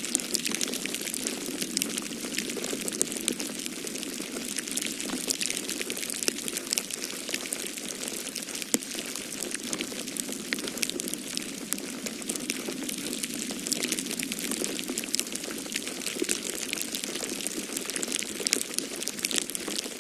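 Wood fire crackling in a fireplace: a steady stream of small pops and snaps over an even rushing noise.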